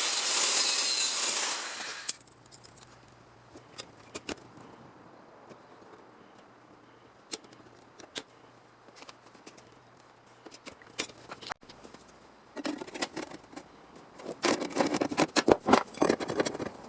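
A power tool running loudly, cut off about two seconds in. Then scattered light metal clicks and knocks, and near the end a few seconds of rapid scraping and rattling, as of tools or metal parts being handled.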